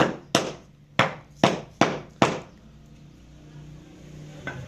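Tool striking wood in quick repeated blows, about two a second, six sharp knocks that stop a little over two seconds in; one lighter knock comes near the end.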